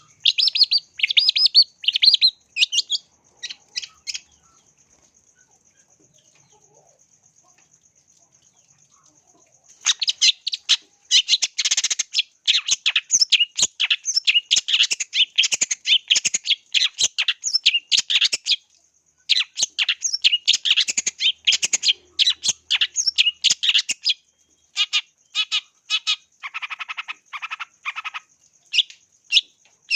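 Long-tailed shrike (cendet) singing a fast, dense run of chirps and harsh notes. The song stops after about four seconds, leaving only a faint steady high tone, then starts again about ten seconds in and carries on in near-continuous runs with short breaks.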